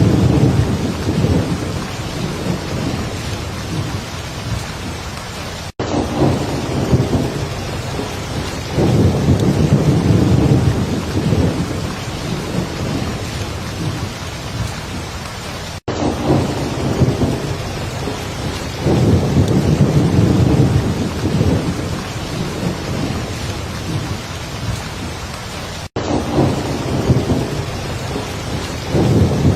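Heavy rain falling steadily, with low thunder rumbling and swelling again and again underneath. The sound cuts out for a split second about every ten seconds.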